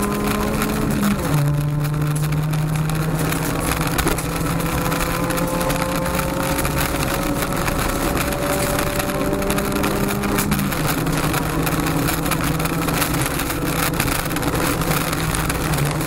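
Honda Civic rally car's 1.6-litre four-cylinder engine pulling hard under full throttle, heard from inside the cabin over constant tyre and road noise. It shifts up about a second in and again a little before 11 s, the pitch dropping at each change and then climbing slowly.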